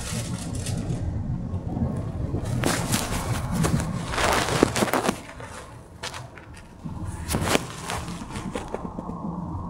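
Cabin running sound of a Taiwan Railways Puyuma Express TEMU2000 electric train: a steady low rumble of wheels on rail with scattered clicks and knocks. The rumble swells about four seconds in and eases off briefly a little after the middle.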